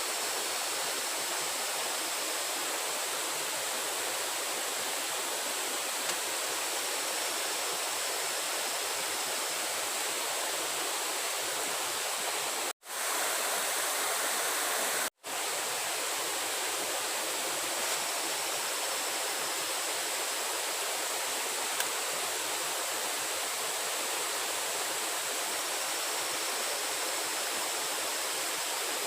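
Steady rushing noise of running water, like a stream or small waterfall. Twice near the middle, about two seconds apart, it cuts out to silence for an instant.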